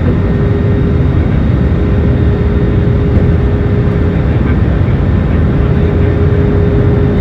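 Airliner cabin noise in flight: a steady low rumble of engines and rushing air, with a steady hum running through it.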